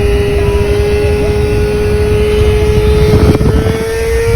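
Motorcycle engine running at a steady speed under heavy wind buffeting on the microphone, its pitch climbing slightly about three and a half seconds in.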